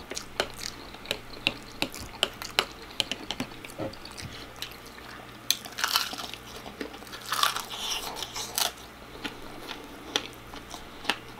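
A person eating close to the microphone: chewing and biting with many short, sharp mouth clicks and crunches, and a few louder bites between about six and nine seconds in.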